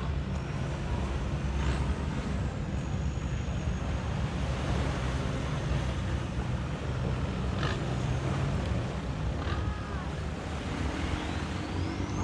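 Beach ambience dominated by a steady low rumble, with a few faint high, thin whistling glides over it.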